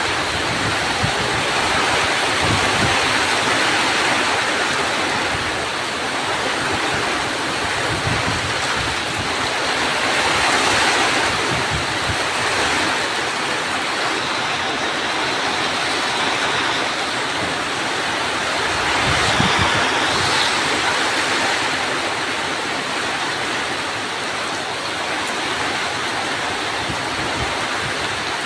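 Heavy rain pouring down in an afternoon thunderstorm, a steady hiss that swells louder a couple of times, around ten seconds in and again near twenty.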